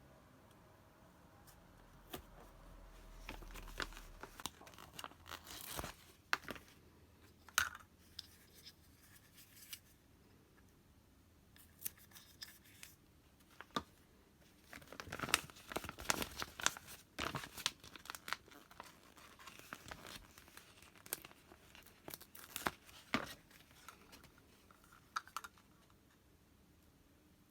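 Close-up tearing and crinkling of paper or plastic, in short bursts with small clicks and taps, busiest in a few clusters.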